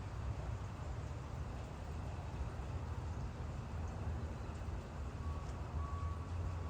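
Steady rain noise over a constant low rumble, with a faint high tone that comes and goes near the end.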